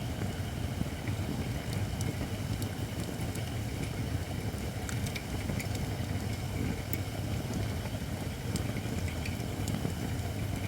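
Campfire of Japanese white oak firewood, not yet fully dry, burning with a steady low rumble and scattered sharp crackles.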